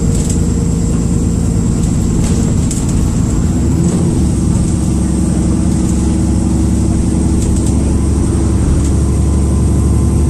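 Dennis Trident II double-decker bus's diesel engine running under way, heard on board, with a steady high-pitched turbocharger whistle like a kettle about to boil over the low engine rumble. About four seconds in, the engine note changes and the whistle steps up slightly in pitch.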